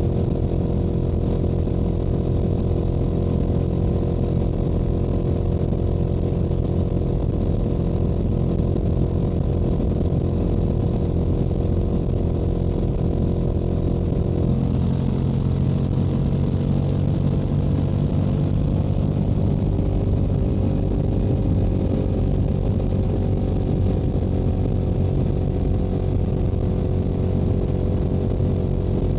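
Stock Yamaha YZF-R7's 689 cc parallel-twin engine running steadily at highway cruising speed, with wind rushing past. About halfway through the engine note changes and then rises slowly.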